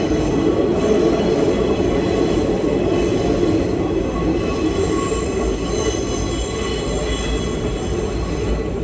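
Nankai 2200-series train running, heard from inside the carriage: a steady rumble of wheels on rail, with faint thin high squeal from the steel wheels.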